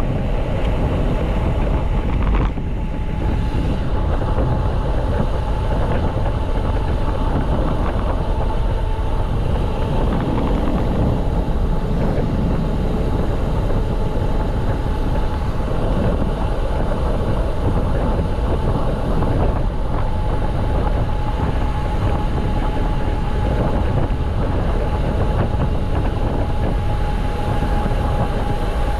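Steady riding noise of a mountain bike on the move: wind rushing over the microphone and tyres rolling, with a steady high hum over it.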